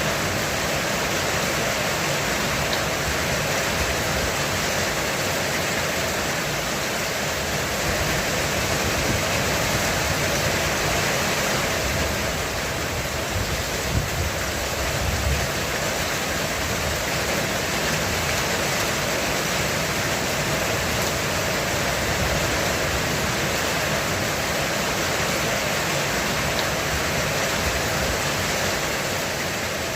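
Heavy rain drumming steadily on a roof, a dense unbroken hiss. A low rumble of thunder swells briefly about halfway through.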